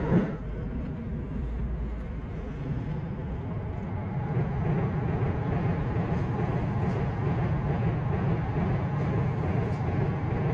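Train running by, a steady rumble that builds slightly.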